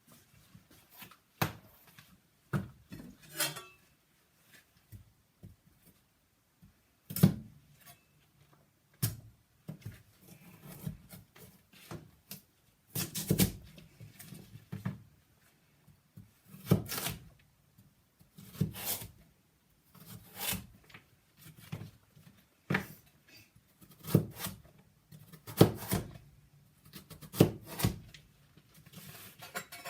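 Kitchen knife knocking on a wooden chopping board in slow, irregular strokes, about one every second or two, with softer scraping and rubbing between the knocks as vegetables are cut.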